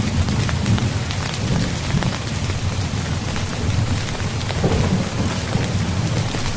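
Steady rain falling on a tent's fabric: dense drop ticks over a continuous low rumble.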